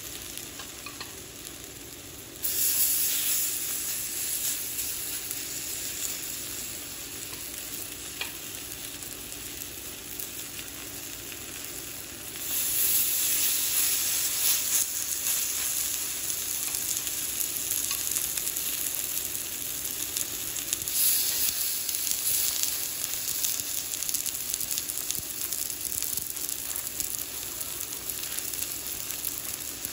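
Food sizzling as it fries in a Lodge cast iron skillet, jumping louder about two seconds in and again about twelve seconds in.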